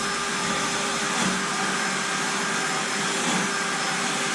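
Handheld power tool used for sanding rust off the truck frame, running steadily with a constant whine over a broad hiss.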